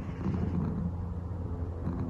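Calico cat purring steadily, a low, fast-pulsing rumble.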